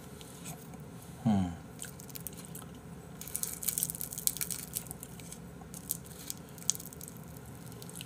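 Close-miked chewing and mouth smacks of a man eating rice wrapped in seasoned laver, with a cluster of quick wet clicks in the middle. About a second in there is a short hum whose pitch falls.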